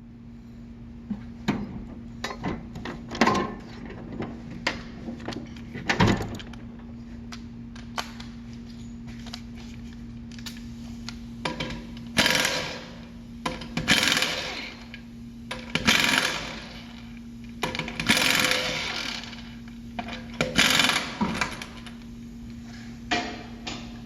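Pneumatic tool running in short bursts of about a second, five times in the second half, with scattered metal clinks and knocks and a steady hum underneath.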